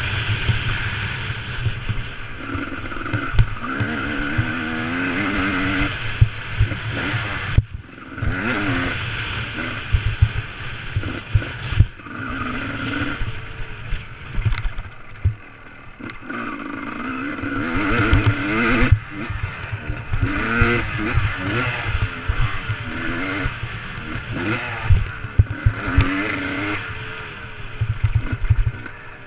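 Motocross dirt bike engine being ridden hard, its pitch rising and falling over and over as the throttle is opened and shut. A heavy low rumble with many short knocks runs underneath, and the sound drops out briefly a little under eight seconds in.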